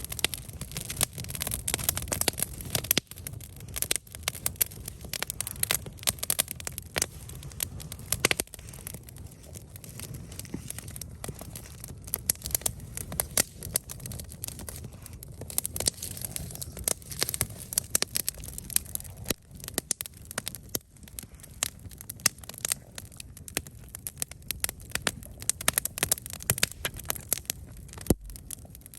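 Wood campfire crackling and popping, with frequent irregular snaps over a low steady rumble of the flames.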